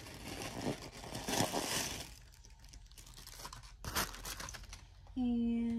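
Paper stuffing crinkling and rustling as it is handled inside a leather handbag, busiest in the first two seconds, then a single sharp tap about four seconds in.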